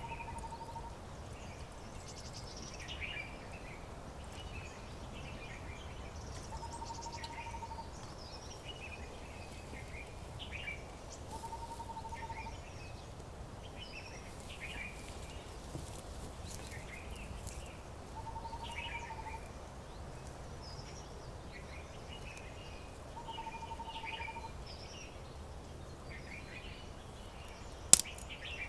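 Birds chirping and singing, with short calls scattered throughout and a lower, steady whistled note about a second long repeating five times at intervals of about five seconds. A single sharp click comes near the end.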